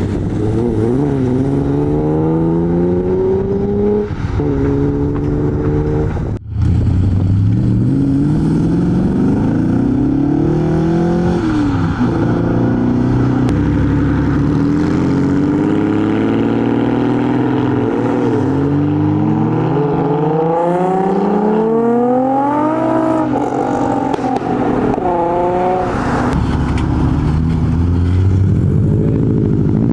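Modified cars' engines revving and accelerating away, their pitch climbing and falling again and again with each rev and gear change. A short gap breaks the sound about six seconds in.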